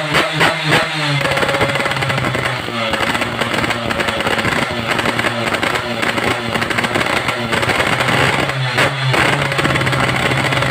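Motorcycle engine blipped a few times in quick succession, then running steadily at a raised, even speed, with another short rev near the end. The engine is newly built.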